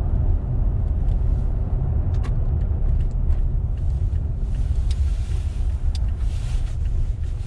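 Pickup truck driving, heard from inside the cab: a steady low rumble of engine and tyre noise, with scattered faint clicks.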